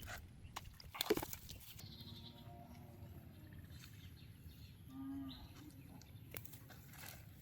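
A sharp knock about a second in, then two short pitched animal calls: one around two seconds in, lasting about a second, and a shorter one around five seconds in, over low steady background noise.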